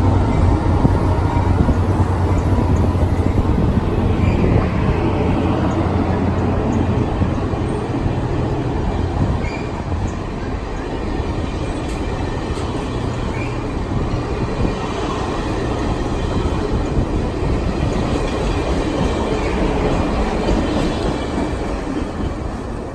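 A train passing close by: a steady low hum through the first several seconds, then the rumble of wheels on rail, fading near the end.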